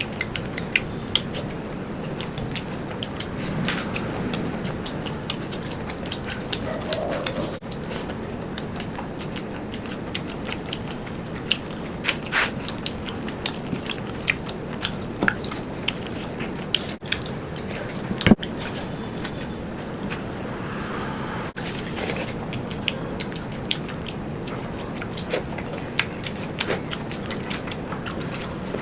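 A person chewing and eating food close to the microphone, with many scattered sharp clicks over a steady low noise bed.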